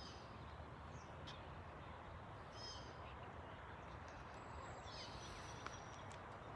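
Faint steady outdoor background noise with a few short, scattered bird chirps.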